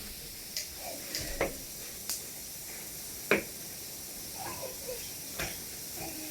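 Scattered light clicks and knocks of a speed square and marker being handled against the bottom of a plastic kiddie pool, about half a dozen over several seconds, over a faint steady hiss.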